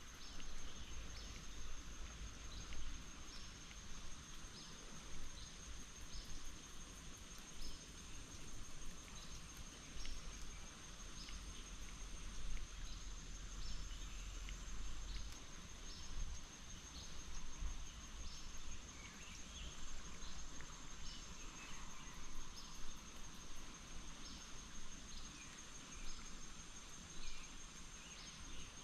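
Insects droning steadily on one high note, with short high chirps repeating roughly once a second, over a faint low rumble.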